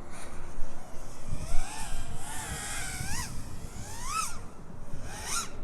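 6S FPV freestyle quadcopter's brushless motors (XHover 2207, 1824 kV) spinning Black Bird T-Motor 4943 props: a whine that rises and falls with the throttle, sweeping up sharply about three, four and five and a half seconds in, over a low rumble of wind.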